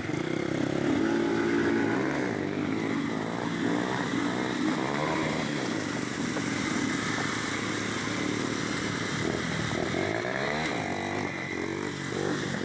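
Honda CB300 single-cylinder motorcycle engine running under way, its pitch rising and falling several times as it revs and eases off.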